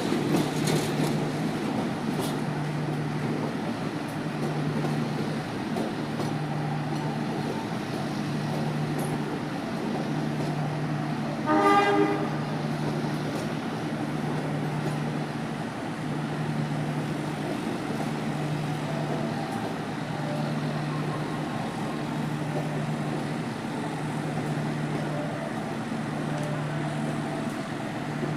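Train at a station: a steady low rumble with a hum that swells and fades about every second and a half, and one short horn blast about twelve seconds in.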